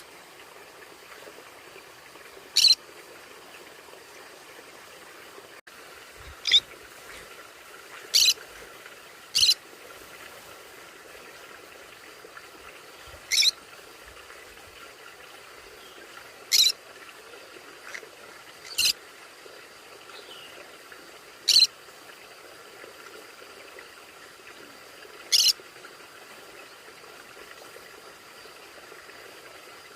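A conure giving short, sharp single calls, nine in all, spaced irregularly a few seconds apart, over a faint steady background hum.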